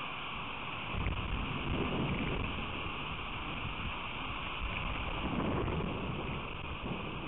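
Rain storm: a steady hiss of rain with wind buffeting the microphone, the low rumble of gusts swelling about a second in and again around five seconds.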